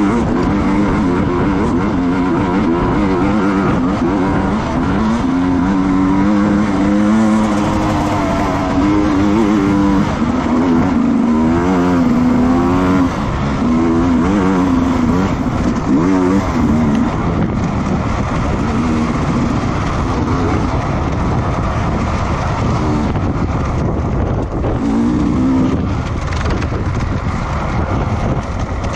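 Racing motorcycle engines running hard on track, their pitch rising and falling again and again as they rev up and shift through the gears, over a steady roar.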